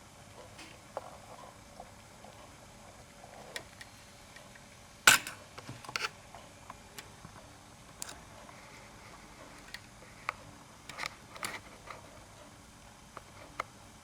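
Scattered light clicks and taps from a pet budgie at play, with one sharp knock about five seconds in.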